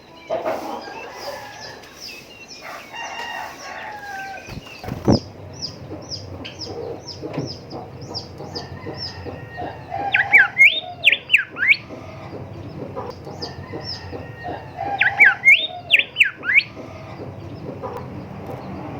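Golden whistler (bimoli) singing: two loud phrases of fast rising and falling whistles, one about ten seconds in and another about fifteen seconds in, over a run of short high notes repeated a few times a second. A sharp knock sounds about five seconds in.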